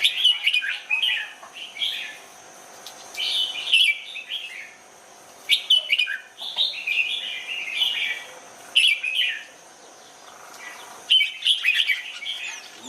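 Red-whiskered bulbul singing: about six short, quick warbled phrases, each a second or so long, separated by brief pauses.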